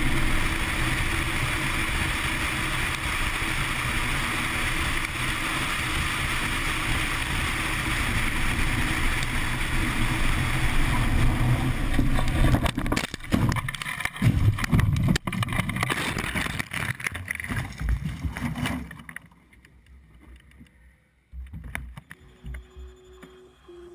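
Steady vehicle running and road noise, then from about halfway through a run of irregular knocks and thumps that stops suddenly, leaving it much quieter.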